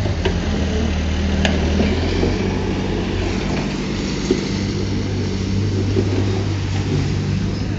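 Heavy earthmoving machine's diesel engine running steadily, with a few short clicks.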